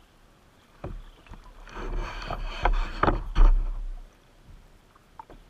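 Kayak paddle strokes splashing in fast river water, with several sharp splashes or knocks bunched between about a second and a half and four seconds in, over a low rumble.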